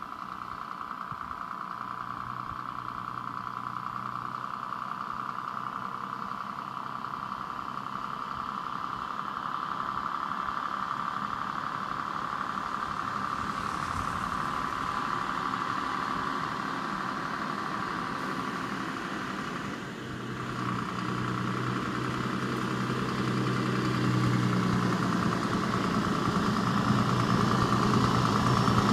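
Scania truck engine running steadily, growing gradually louder, with a brief drop about two-thirds of the way through.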